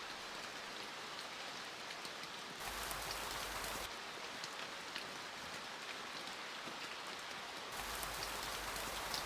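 Steady rain falling, with scattered drops ticking. It grows heavier and fuller about two and a half seconds in, eases back a second later, and swells again near the end.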